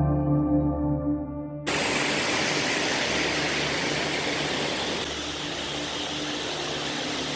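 Ambient music with sustained ringing tones cuts off suddenly about a second and a half in, giving way to steady wind rush over a low engine hum from a KTM 1290 Super Adventure motorcycle on the move.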